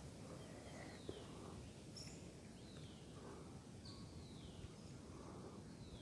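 Faint bird calls: a short falling whistle repeated about once a second over a low outdoor background hiss.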